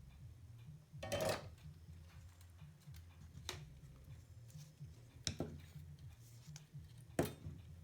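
Sharp clicks and knocks from handling tools and wires during bench work on an amplifier's wiring, four in all, the loudest about a second in. A low steady hum runs underneath.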